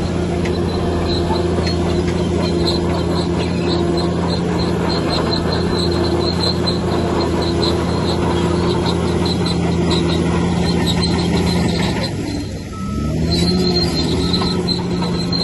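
Bulldozer's diesel engine running under steady load, with a high, pulsing squeal from the crawler tracks. About twelve seconds in the engine note drops briefly, then rises again as it revs back up.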